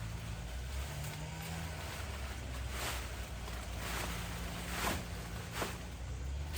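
A steady low engine hum, with four short rushing swishes in the second half.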